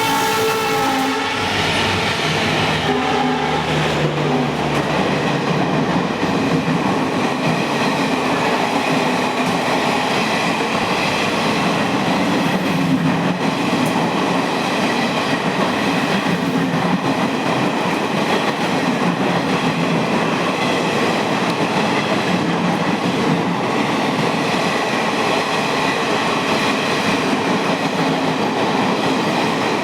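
Maharaja Express train running through a station without stopping: its horn ends about a second in, then the coaches roll past at speed with a steady rush of wheels on rail.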